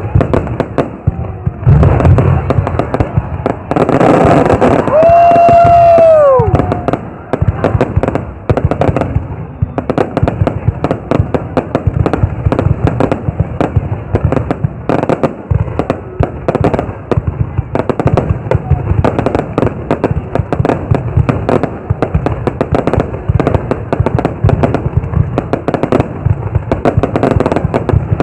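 Fireworks going off in a dense, continuous run of bangs and crackling, heaviest from about two to six seconds in. A short whistling tone sounds about five seconds in and falls away.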